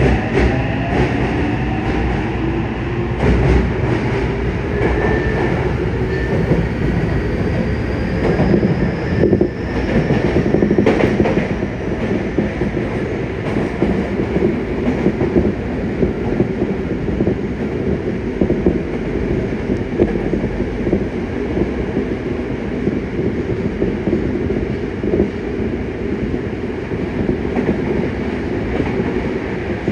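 Yokohama Municipal Subway 3000N-series train's Mitsubishi IGBT-VVVF inverter whining and rising in pitch as the train accelerates over the first several seconds. It then settles into steady wheel-and-rail running noise with occasional rail-joint knocks.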